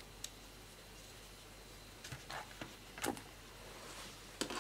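A few faint, scattered clicks and knocks of small laptop parts and tools being handled, with a sharper knock about three seconds in and a couple more near the end.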